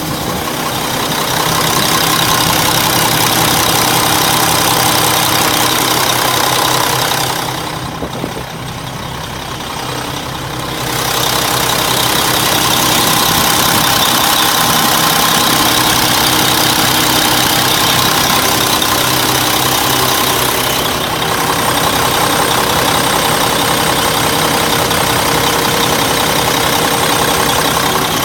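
1999 Mack RD690S's diesel engine idling steadily, briefly quieter and duller from about eight to eleven seconds in.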